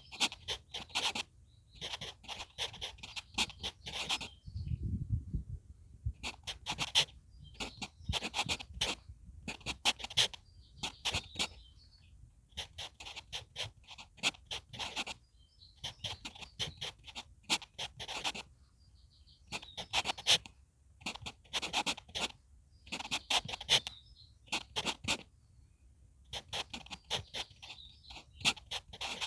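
HB pencil writing on a paper manuscript sheet: quick scratchy strokes in bursts of a second or two with short pauses between them, character by character. Faint bird chirps in the gaps, and a brief low rumble about five seconds in.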